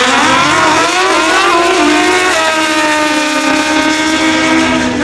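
Drag racing motorcycles at full throttle making a pass, loud engine note rising for about a second and a half, then stepping down and holding steady.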